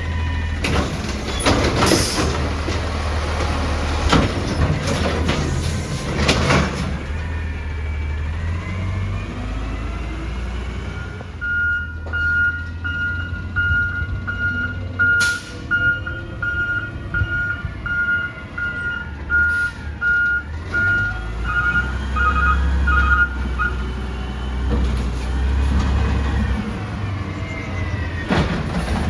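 Garbage truck's diesel engine running, with a burst of clanking and banging for the first several seconds. Then its reverse alarm beeps steadily for about twelve seconds as the truck backs up, a second beeper joining briefly near the end.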